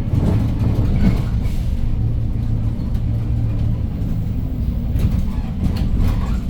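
Inside a moving 2015 Hyundai New Super Aerocity city bus: its CNG engine runs with a steady low drone, with a few short rattles from the body.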